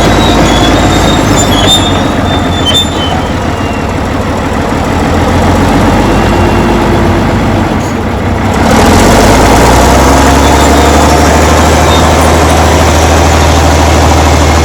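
Crawler bulldozer's diesel engine running, with a few short high-pitched squeals in the first few seconds. About nine seconds in, it steps up to a louder, steadier drone.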